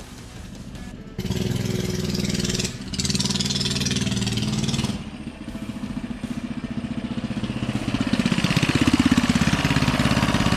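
Small mini bike engine revving hard as the bike pulls away about a second in, easing off around five seconds, then building up louder again toward the end with its pitch sweeping.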